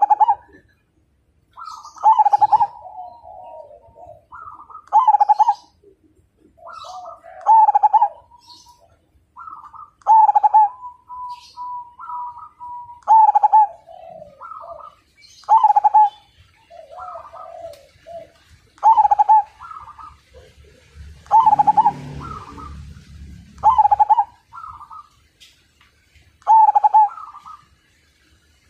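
Zebra dove (perkutut) singing its rhythmic cooing song, one loud phrase about every two to three seconds, with faint high chirps from other small birds behind it.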